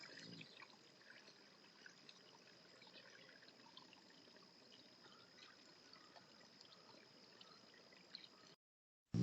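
Faint trickling water with scattered small ticks and a thin steady high-pitched tone. It cuts off abruptly shortly before the end.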